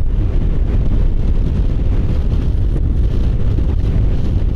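Steady wind rush and low rumble on the microphone while riding a 125 cc Kymco Agility City scooter along a road, with the scooter's engine and tyre noise blended in underneath.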